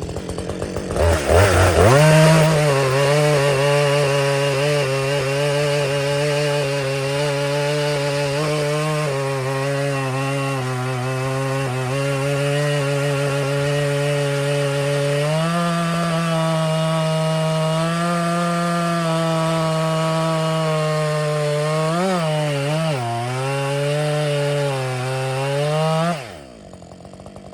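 Husqvarna 562XP two-stroke chainsaw revved to full throttle about two seconds in and cutting through a log, its engine note holding steady under load. The pitch lifts slightly about halfway through and dips twice near the end, then the throttle is released and the sound falls away sharply. The saw is cutting on its stock factory dogs.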